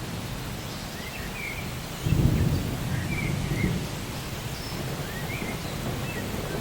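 Rainforest ambience: a steady hiss of rain, with a low rumble of thunder swelling about two seconds in. Short rising-and-falling bird chirps repeat over it.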